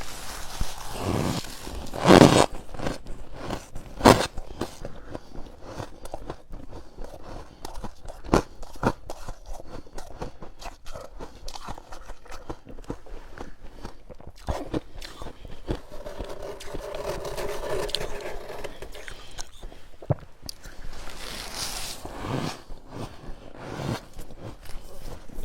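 Freezer frost being scraped up and bitten, soft powdery crunches with a few sharp, louder bites scattered through, the loudest ones near the start.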